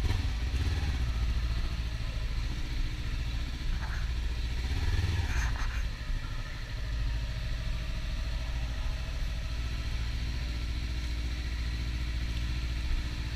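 Kawasaki Ninja 300 parallel-twin engine running steadily with a low rumble, with a brief rising-and-falling sound about five seconds in.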